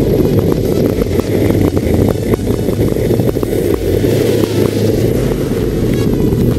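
The 2006 Subaru WRX STI's turbocharged 2.5-litre flat-four engine running under way on a snowy road, mixed with a dense rumble of tyre and road noise and scattered small ticks, as heard from a camera mounted outside on the car.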